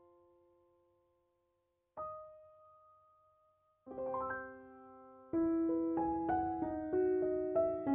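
Background piano music: a sustained chord fading out, a single note, then a chord, and from about five seconds in a louder run of notes and chords.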